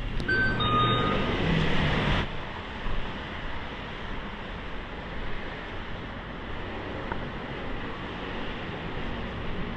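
Steady street and traffic noise. In the first two seconds a louder stretch carries a few short electronic beeps, then it cuts off suddenly.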